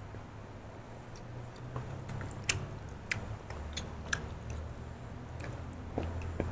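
Close-miked chewing with wet mouth smacks and irregular sharp clicks, over a low steady hum.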